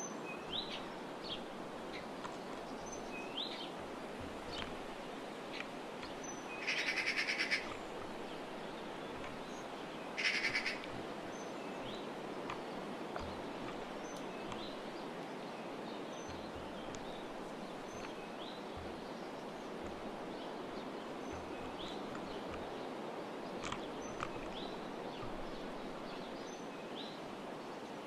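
Small birds chirping with short, repeated notes over a steady outdoor hiss, with two louder rapid rattling calls, one about seven seconds in and another about three seconds later.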